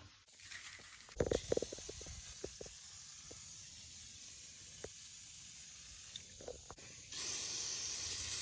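Aerosol chain lube spraying onto a dirt bike's drive chain: a long faint hiss, then a louder spray starting about seven seconds in. A run of light clicks comes about a second in.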